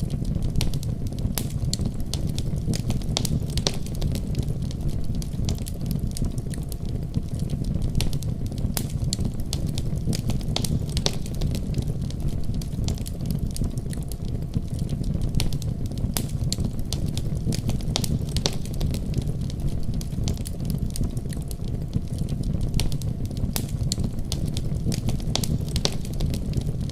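Fire burning in a fireplace: a steady low rush with frequent sharp, irregular crackles and pops.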